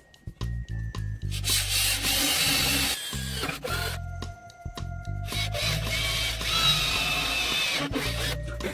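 Background music, with a combination planer-saw machine cutting wood twice, each pass a dense hissing whine lasting about two seconds.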